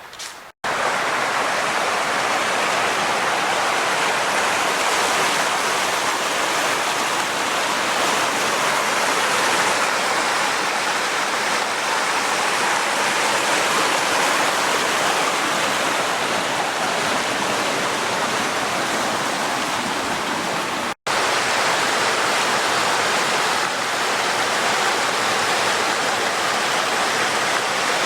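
Creek water rushing steadily over small waterfalls and rapids, a loud even rush that cuts out for an instant about half a second in and again about 21 seconds in.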